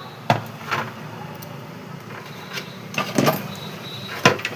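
Clicks and knocks of mixer grinder motor parts being handled and fitted back into the housing, a few irregular taps with the sharpest knock near the end, over a steady low hum.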